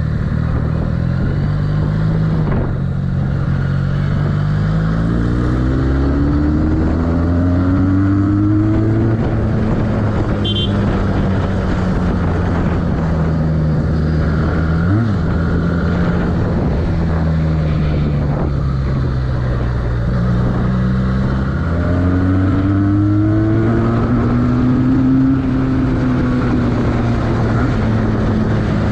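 Benelli 302R motorcycle's inline two-cylinder engine under way on the road, its pitch climbing twice as the bike accelerates and easing back down in between.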